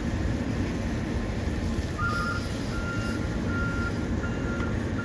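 A garbage truck's reverse alarm beeping about once every 0.7 seconds, starting about two seconds in, over a steady low truck engine rumble.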